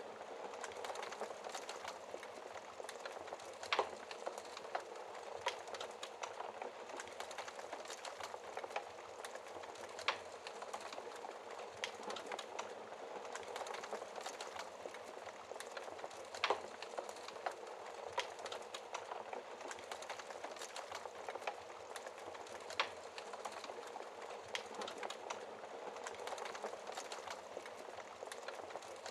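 Wood fire crackling in a fireplace: a steady stream of small crackles, with four louder pops spaced roughly six seconds apart.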